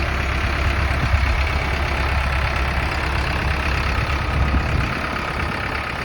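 Iseki NT 554 tractor's diesel engine running steadily while it works with a rotavator; the deep low rumble eases about five seconds in.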